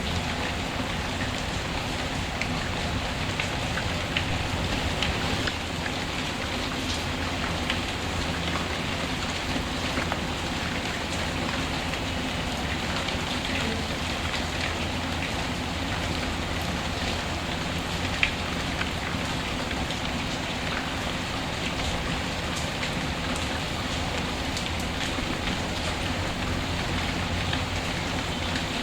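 Steady rain falling, mixed with scattered sharp crackles from a wood fire, with one louder pop about 18 seconds in.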